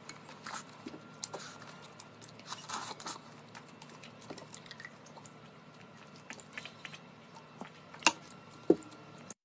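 Close-up eating sounds: quiet chewing and biting with small wet mouth clicks. Two sharp clicks come near the end.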